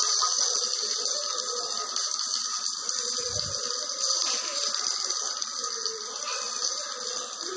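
Onion, curry leaves, coconut and chana dal frying in oil in a steel pan, a steady sizzle, as they are sautéed until brownish. A metal spatula stirs and scrapes through them, with a low bump about three seconds in.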